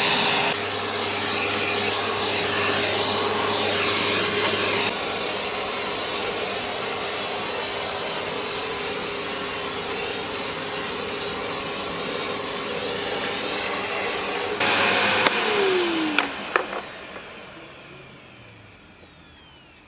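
Electric motor of a household appliance running steadily with a whirring hiss, its sound shifting a couple of times, then switched off about fifteen seconds in and winding down with a falling whine. A few light knocks follow.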